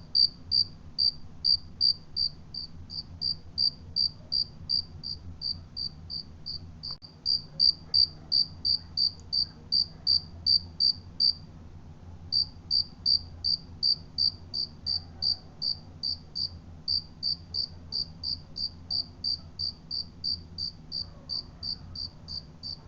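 A cricket chirping steadily, short high chirps at about three a second, with a brief break about halfway through.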